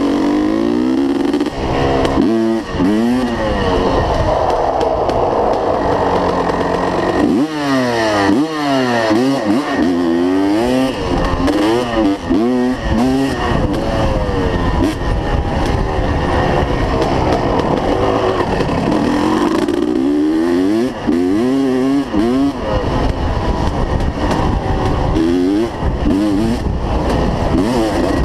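Dirt bike engine running loud and revving, its pitch rising and falling again and again as the throttle opens and closes.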